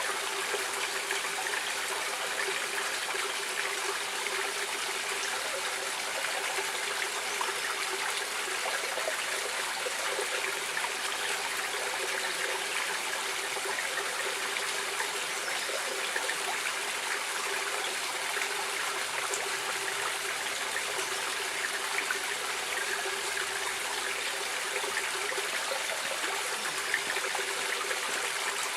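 Stream water running and trickling steadily, an even flow with many small splashes and no change in level.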